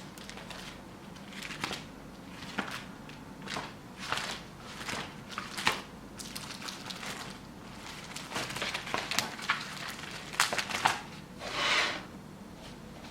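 Irregular crinkling and crackling handling noises with sharp clicks, ending in a longer rustle near the end.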